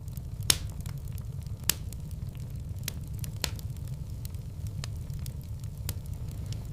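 Wood fire in a fireplace crackling: a steady low rumble of the flames with scattered sharp pops and snaps, the two loudest in the first two seconds.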